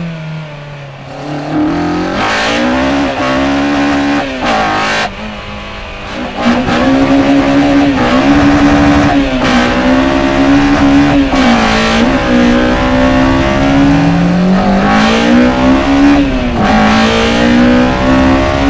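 Naturally aspirated K20 four-cylinder engine on individual throttle bodies in a Honda Integra Type R DC2, heard from inside the cabin while driving hard. The revs climb, hold high and drop several times, with short breaks between pulls.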